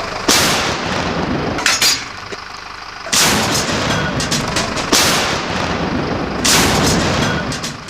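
M60 tank guns firing artillery rounds: three heavy booms about three seconds apart, each followed by a long rolling echo.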